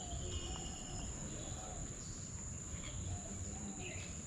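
Outdoor nature ambience: a steady high-pitched insect drone, like crickets, with scattered short bird chirps and a low rumble beneath.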